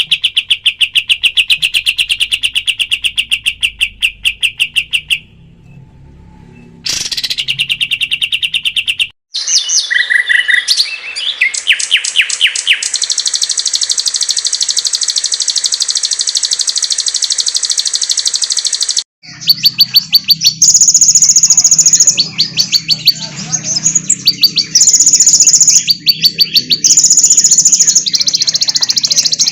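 Songbirds singing fast trills of rapid repeated chirps, spliced from several recordings. The sound cuts abruptly to a different bird about nine and nineteen seconds in, and the final part has a low hum underneath.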